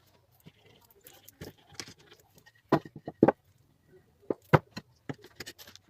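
Irregular knocks and sharp taps on wood, a few louder strikes in the middle: pallet-wood slats being set in place and tacked with small headless nails.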